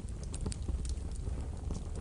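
Wood fire burning in a wood stove: irregular crackles and small pops of burning logs over a steady low rumble of the flames.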